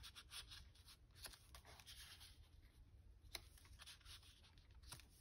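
Near silence with faint rustling of paper and a few light clicks or taps as a paper tag and journal pages are handled.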